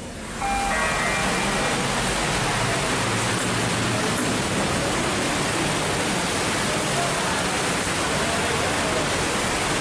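Heavy rain pouring down: a steady, dense hiss that comes in suddenly about half a second in. A short electronic tone sounds at the moment the hiss starts.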